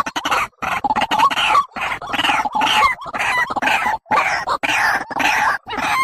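A bird calling over and over in quick, harsh notes, about two to three a second, each with a short gliding whistle in it.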